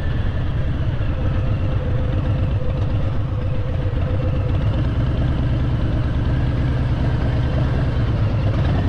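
Harley-Davidson V-twin motorcycle engine idling with a steady, even low rumble.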